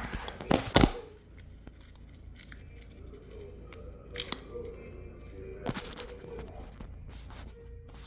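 Hard plastic clicks and knocks from handling a Tamiya RC drift car while its battery is being disconnected, with two sharp loud snaps just under a second in and a few lighter clicks later.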